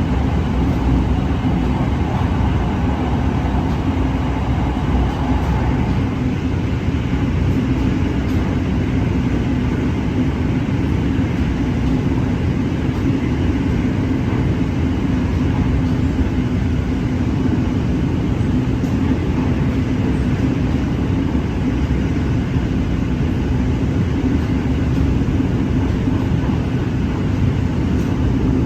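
Red Line electric commuter train running at speed: a steady rumble of wheels on rail with a constant hum, heard from inside the carriage.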